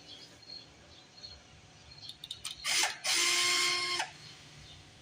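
Aerosol can of carburetor cleaner, nearly empty, being sprayed. A few clicks and a short spurt come about halfway through, then about a second of steady hissing with a faint whine.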